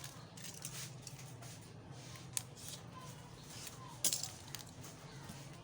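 Small clicks and taps of tools and parts handled during a smartphone teardown. A sharper click comes a little past two seconds in, and a louder one about four seconds in, over a steady low hum.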